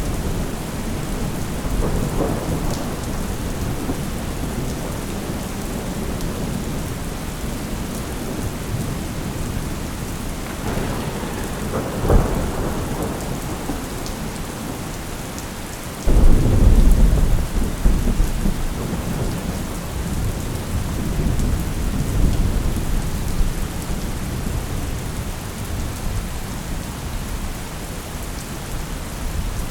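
Steady heavy rain with rolling thunder. A sharp crack comes about twelve seconds in, and a little past halfway a sudden loud thunderclap rumbles off over a few seconds.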